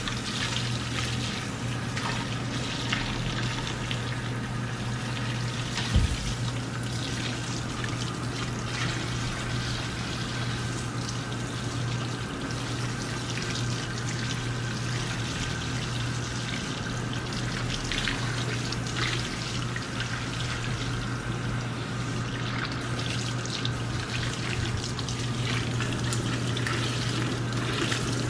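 Tap water running into a salon shampoo basin as hair is washed, over a steady low hum, with a single knock about six seconds in.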